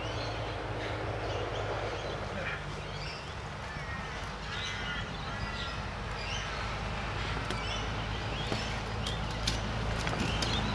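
Birds calling over a steady low hum, with a few sharp clicks near the end.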